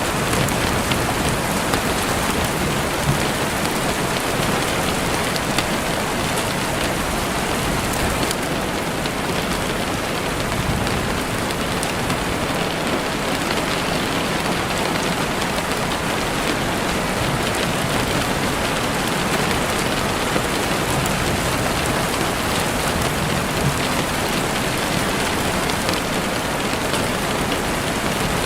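Steady rain falling, with a few sharp campfire crackles scattered through it.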